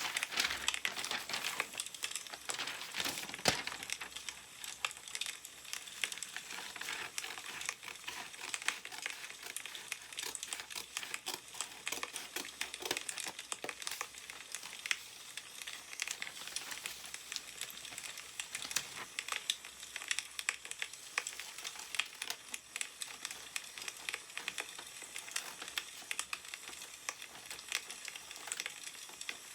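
Firewood crackling with many small irregular pops, mixed with newspaper paper rustling and crinkling as it is handled.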